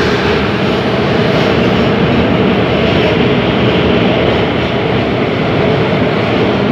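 Steady noise of a passenger train carriage running through a railway tunnel, heard from inside the carriage at a window, the wheel and rail noise echoing off the tunnel walls.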